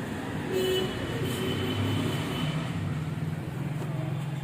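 Motor vehicle engine running with a steady low hum that grows a little louder about half a second in.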